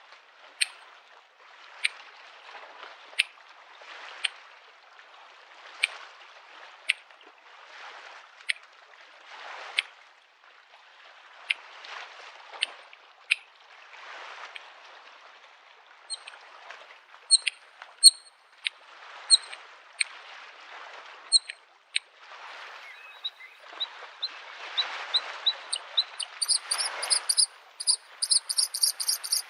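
Small waves lapping at a lake shore, a wash every second or two with sharp little clicks of water. From about halfway a bluethroat sings short high notes, breaking into a fast, high trill near the end.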